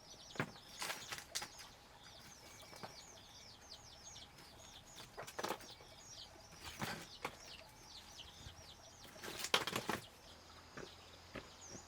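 Small birds chirping over and over in short, quickly falling notes, with several brief sudden noises in between, the loudest group about nine and a half seconds in.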